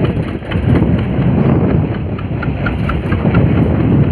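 Fishing boat's engine running steadily, with a fast, regular light ticking over its low sound.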